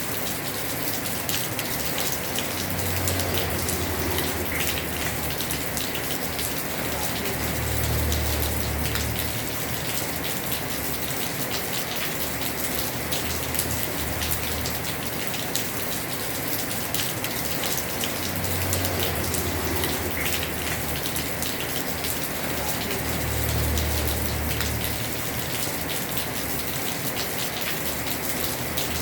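Heavy rain falling on a house roof: a steady, dense patter of drops, with a low rumble swelling up and fading four times.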